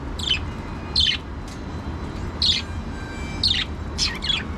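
Budgerigars giving short, scratchy chirps, about six in a few seconds, over a steady low hum.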